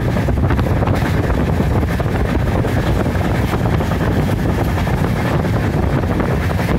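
Passenger express train running at speed, heard from an open carriage window: a steady, unbroken rush of running noise mixed with wind buffeting the microphone.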